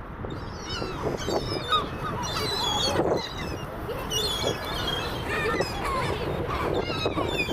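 A flock of seagulls calling, with many short high calls overlapping one another over a steady low background noise.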